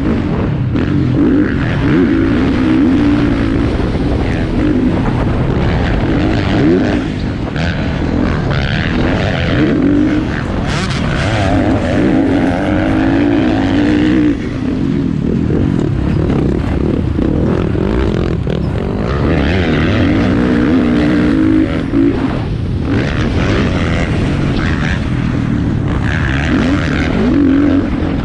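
Motocross bikes racing, their engines revving up and falling back again and again over a steady low rumble.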